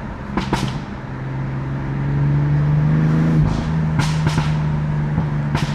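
BMW F80 M3's S55 twin-turbo inline-six running while driving, its drone climbing slightly in pitch then holding steady, with a low thump about three and a half seconds in and a few short sharp clicks.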